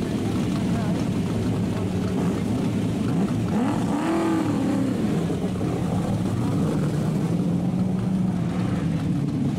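Pack of HQ Holden race cars running on the circuit, a steady mass of engine drone. About four seconds in, one car passes close and its pitch rises and falls as it goes by.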